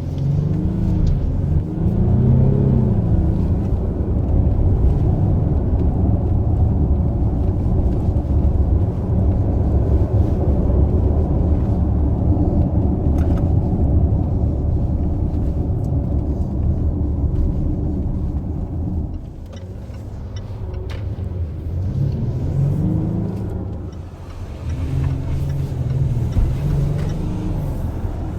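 Range Rover Velar D300's 3.0-litre V6 turbodiesel running with a steady low rumble, its revs rising and falling briefly a couple of times near the start and again near the end.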